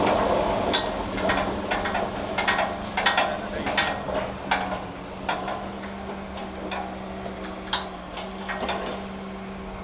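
Irregular light metal clinks and knocks, as of tools and steel parts being handled during a repair, over a steady low hum.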